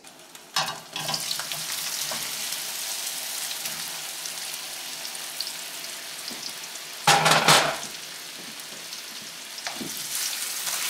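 Cornstarch-coated potato pieces dropped into hot canola oil in a stainless steel wok, then sizzling steadily as they fry. A brief loud noise comes about seven seconds in, and a wooden spatula stirs the potatoes near the end.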